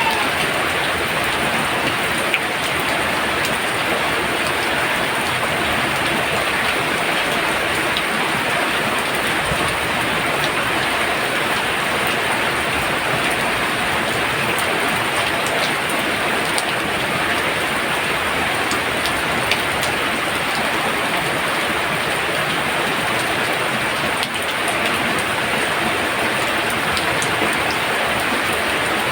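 Heavy rain pouring down steadily, a dense even hiss of drops on surfaces.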